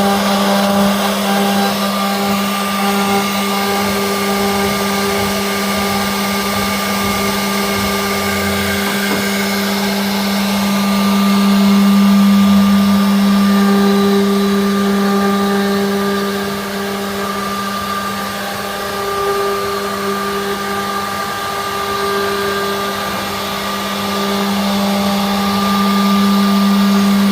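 Sawmill machinery running steadily with a strong, even hum, swelling a little in the middle and again near the end.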